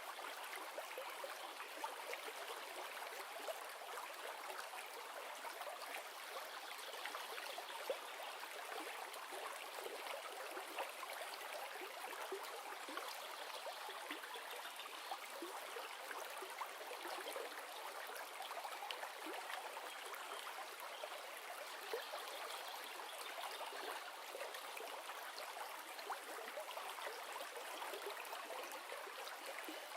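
River water running steadily: a constant rushing flow with small splashes and gurgles scattered through it.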